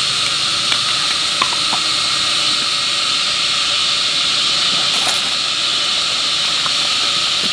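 Steady, loud hiss with a few faint ticks.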